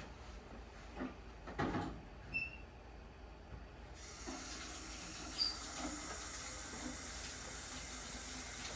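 A couple of knocks and a short squeak, then water starts running into a container being filled about four seconds in, a steady hiss.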